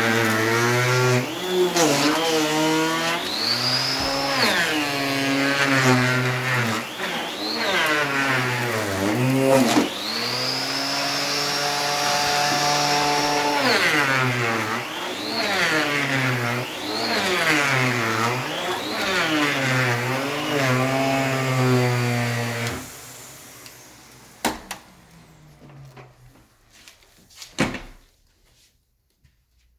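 Allegro Champion MUA50 central vacuum motor running, its pitch swinging up and down several times. About 23 seconds in it shuts off and winds down, followed by a few faint clicks.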